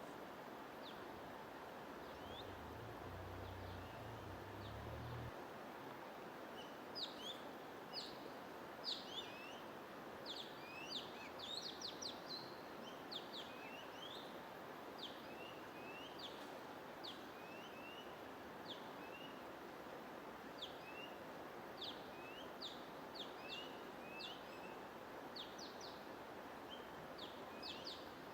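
Birds chirping: many short, quick chirps, scattered at first and coming thickly from about seven seconds in, over a steady rushing background noise.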